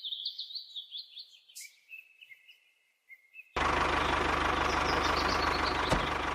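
Birds chirping in quick, short calls. About three and a half seconds in, a loud, steady mechanical noise with a low hum cuts in abruptly, and faint chirps go on over it.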